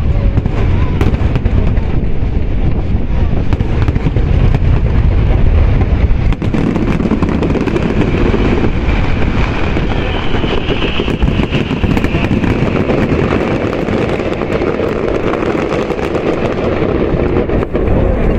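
Fireworks display going off in quick succession: a dense, continuous run of booms and crackles, with the heaviest stretch in the first third.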